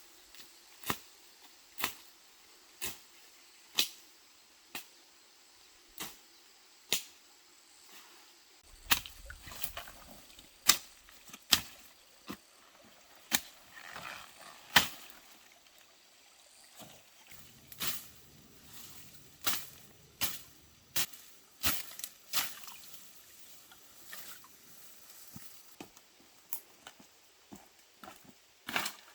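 A series of sharp knocks or taps, evenly spaced about once a second at first, then quicker and irregular from about a third of the way in.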